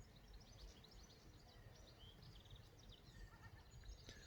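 Near silence: faint small birds chirping repeatedly in the background over a low rumble of wind.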